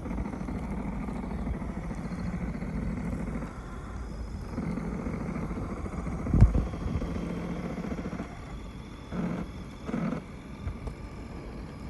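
Redcat Gen7 RC rock crawler's electric motor and drivetrain whirring as it pushes through deep snow, in two long runs and then two short bursts of throttle. A sharp thump stands out about six and a half seconds in.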